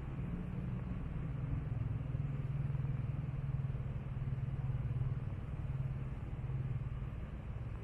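A motor vehicle engine running with a steady low hum, growing a little louder through the middle and easing off near the end.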